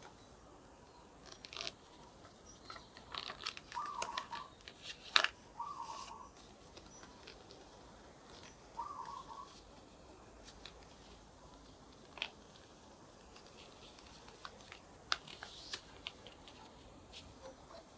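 A sheet of paper being folded and creased by hand: scattered rustles, crinkles and sharp creasing clicks, with a few short squeaks.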